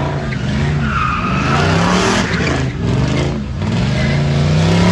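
A car spinning on pavement: tyres squealing and skidding while the engine revs up and down.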